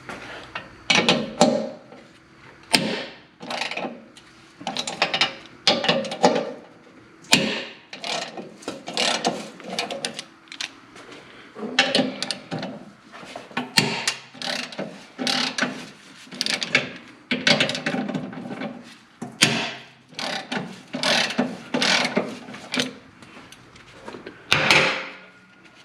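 Ratchet wrench working a bolt loose in repeated strokes, the pawl clicking on each back-swing, with short pauses between runs.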